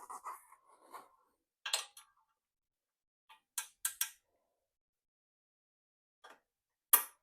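Sparse, sharp metallic clicks and clinks of hand tools and exhaust parts as a motorcycle's stock exhaust is taken off. There are single ticks, a quick cluster of three around the middle, and the loudest clink near the end.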